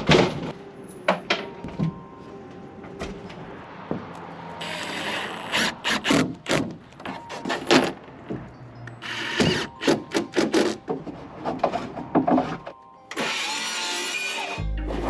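Construction work with hand and power tools: a run of sharp knocks and clicks, and three bursts of a power tool running for a second or two each.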